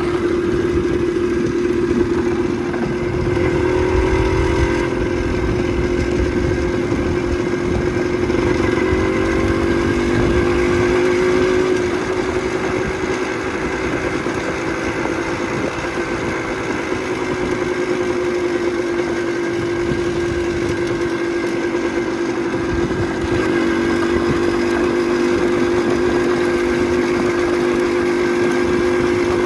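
Motorcycle engine running at a steady cruising speed, its pitch holding almost level with small wavers, over a low rumble of wind and road.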